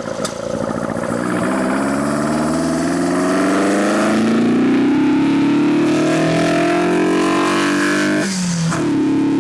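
1981 Toyota Corolla KE70's 4K four-cylinder engine pulling up through the revs, its pitch rising steadily for about four seconds and then holding. About eight seconds in the pitch and level dip briefly before the engine steadies again.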